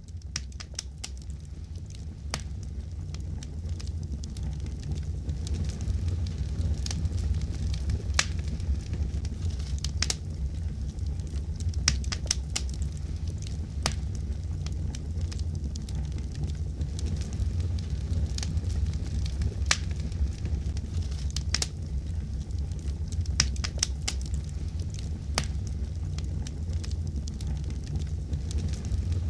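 Wood fire in a fireplace crackling, with frequent sharp pops and snaps over a steady low rumble. It fades in over the first few seconds.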